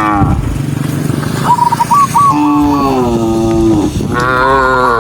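Cattle mooing: a run of short, high, hooked calls, then a long moo that slides down in pitch about two seconds in, and another moo starting near the end.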